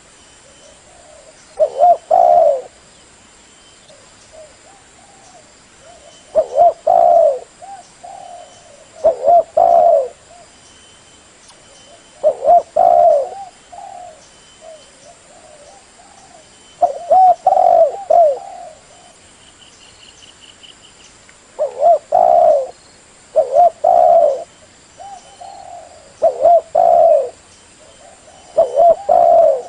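Spotted dove (tekukur) cooing: short phrases of a few low, hooting coos, repeated every two to five seconds.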